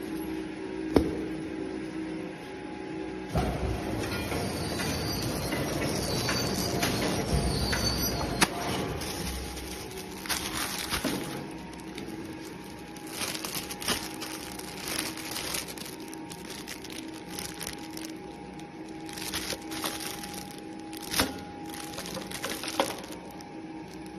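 Automatic packaging machine running: a steady mechanical hum under repeated clicks, knocks and stretches of hissing noise from its moving parts.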